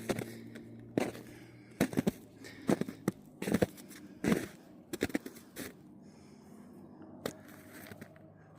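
Footsteps at a steady walking pace, about one step a second, which stop about six seconds in, with a single step later.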